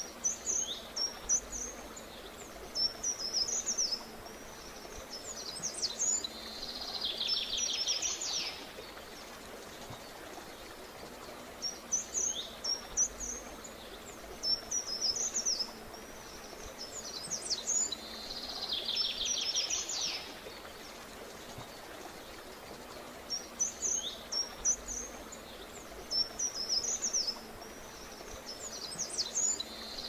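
A songbird singing: a run of high, quick chirps followed by a fast, slightly falling trill, the same phrase coming back about every twelve seconds over a soft, steady background hiss.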